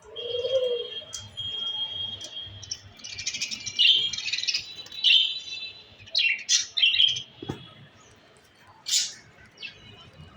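Pet budgerigars chirping and chattering in short, repeated bursts, with a dove's low coo in the first second.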